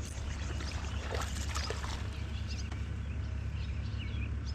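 Steady low hum of a boat motor running.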